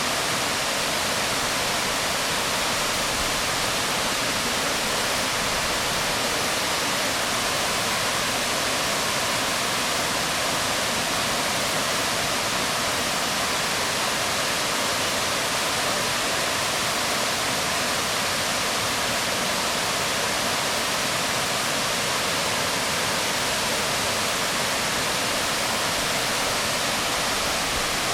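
Waterfall falling onto rocks: a steady, unbroken rush of water.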